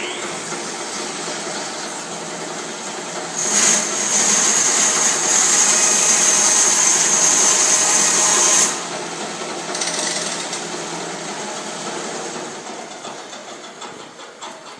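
Bandsaw mill running, its blade cutting through a coconut: a steady mechanical noise that turns much louder and hissier for about five seconds from a few seconds in while the blade is in the cut, then drops back and slowly fades.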